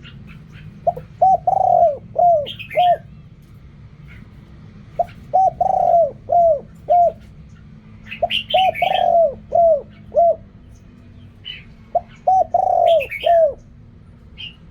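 Spotted dove cooing: four phrases about every three to four seconds, each a short run of low, falling coos with one longer drawn-out coo near the middle. Small birds chirp faintly in between.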